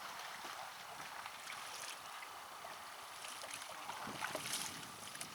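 Water splashing and lapping against a kayak, with a few brief, louder splashes about two, three and a half, and four and a half seconds in.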